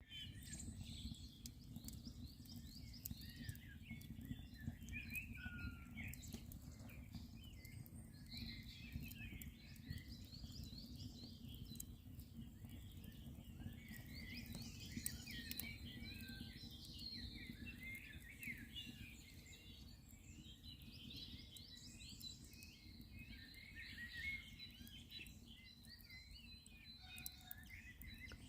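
Several birds singing and chirping continuously, with a wood campfire crackling in scattered small pops under a steady low rumble.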